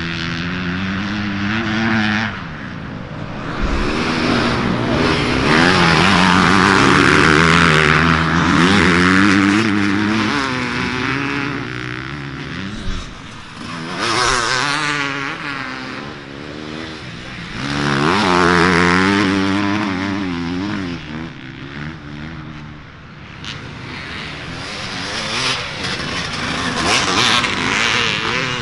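Dirt bike engines revving as bikes race past, pitch climbing and dropping repeatedly, in several waves that swell and fade, the loudest in the first third.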